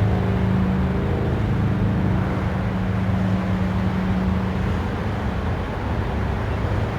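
Steady engine drone, a low hum that eases off about five seconds in.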